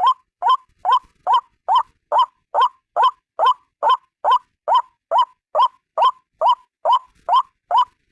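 White-breasted waterhen (ruak-ruak) calling alone: an unbroken run of short, upward-sliding notes repeated evenly a little over twice a second.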